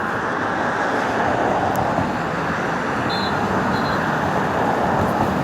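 Steady road traffic noise, an even rushing hum with no single vehicle standing out, with two faint short high chirps a little past the middle.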